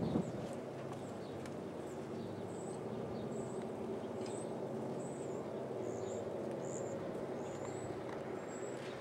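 Diesel locomotive engine running with a steady low drone, with a brief knock right at the start. A bird chirps repeatedly in short high notes over it.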